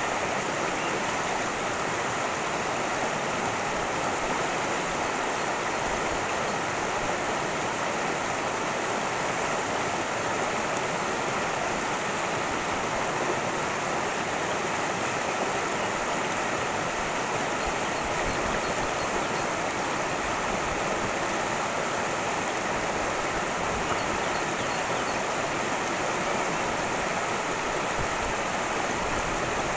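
Cascading creek: water rushing and splashing over rocks in a steady, unbroken wash.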